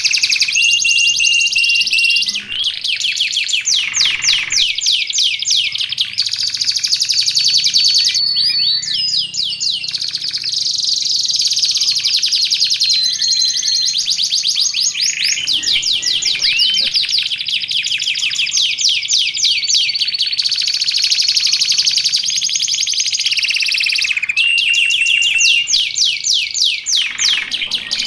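Domestic canary singing without a break: long, fast trills and rolls with steady held whistled notes in between, high-pitched and loud.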